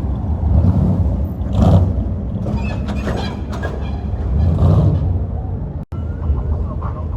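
Car engines rumbling low and steady, with faint voices mixed in; the sound cuts out for an instant about six seconds in.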